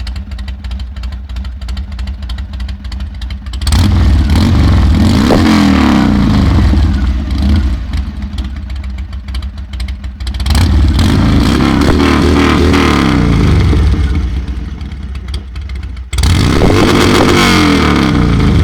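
Harley-Davidson Sportster 1200 V-twin (an 883 bored to 1200) through a Thunderheader 2-into-1 exhaust, idling, then revved three times. Each rev lasts about three seconds before the engine drops back to idle.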